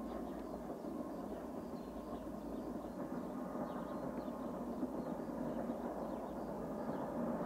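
Locomotive-hauled passenger train running along a mountainside line, heard from a distance as a steady rumble of engine and wheels.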